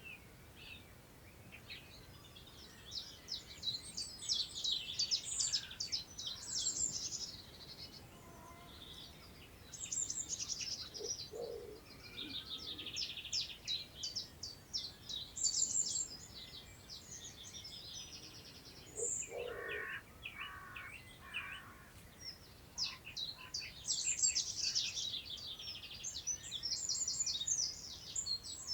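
Several songbirds singing in overlapping, rapid, high-pitched phrases that come and go, with a few lower calls in between, over a faint hush of wind in long grass.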